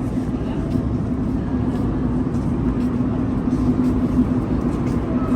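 Steady rumble of a Montreal Metro train running, with a steady low hum.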